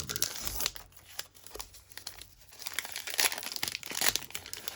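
Trading card pack wrapper being torn open and crinkled by hand: irregular crackling and tearing, busiest a little past the middle.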